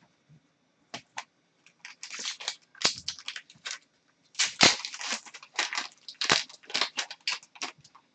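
Trading-card pack wrapper crinkling and tearing as the cards are handled, in two runs of short crackles with a few clicks before them.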